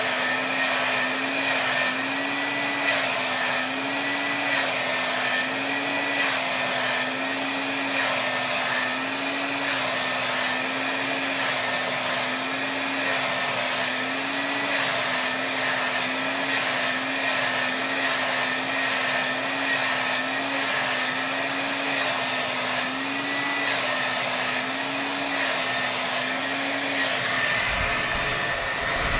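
Hair dryer running at full power: a steady rush of blown air over a motor hum that wavers gently up and down in pitch every second or two. The hum drops out shortly before the end while the air noise carries on.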